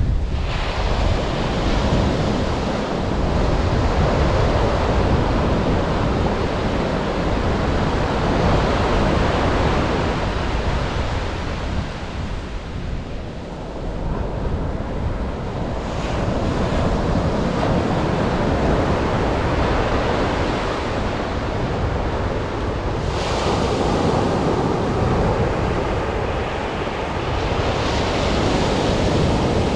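Atlantic surf breaking and washing on a sandy beach, rising and falling in slow swells, with wind buffeting the microphone.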